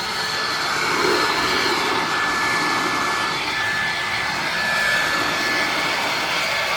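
Ryobi 2000 psi pressure washer running, its spray hissing steadily with a thin high whine over it.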